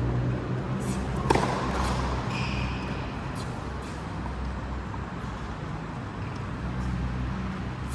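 A racket strikes a ball once, sharply, about a second in, followed shortly by a brief high squeak, over a steady low hum.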